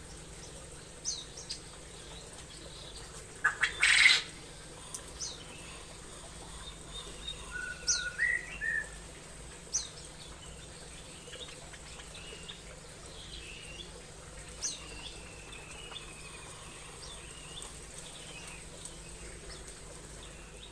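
Small birds chirping in an aviary: scattered short, high, down-slurred chirps, with a warbling call about eight seconds in. About three and a half seconds in there is a brief loud rustle of several quick strokes.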